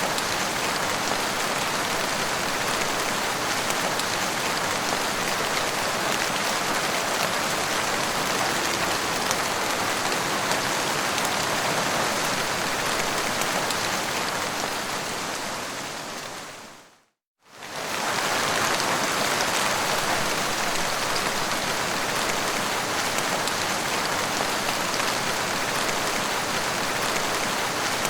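Steady heavy rain, an even hiss of falling drops. A little past the middle it fades out to a moment of silence and then comes straight back at full strength, where the rain recording loops.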